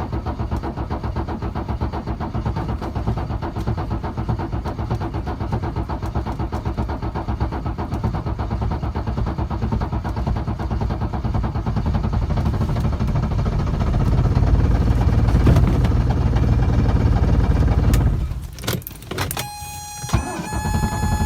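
A diesel engine being cold-started in deep frost, a fast uneven pulsing that grows louder about two-thirds of the way through. It cuts off abruptly near the end, and steady electronic tones follow.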